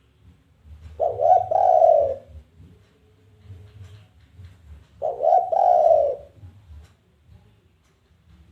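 Spotted dove (tekukur) giving its challenging 'kuk 1' coo twice, about four seconds apart, each call a short run of low coos lasting about a second.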